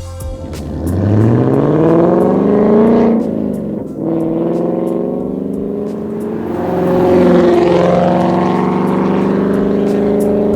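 Ford Mustang GT's 5.0 L V8 running through an MBRP 3-inch cat-back exhaust, revved twice: the pitch climbs over about two seconds, falls back, holds steady, then rises again about seven seconds in.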